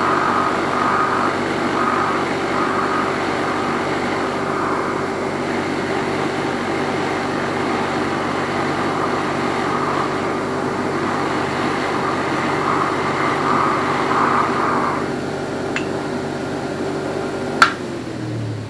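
A motor-driven soft brass wire wheel spinning steadily, its bristles scratching carbon deposits off an aluminium engine piston in uneven passes. The brushing stops about three-quarters of the way in and the wheel runs on its own. A sharp click near the end, and then the motor starts to wind down.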